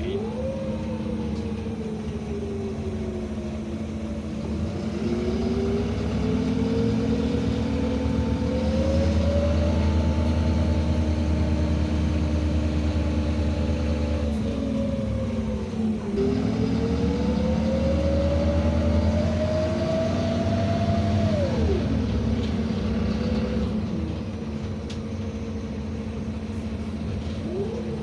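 NEST city bus under way: its engine and drivetrain whine climbs in pitch as the bus accelerates, dips about halfway through, climbs again, then falls away as it slows near the end.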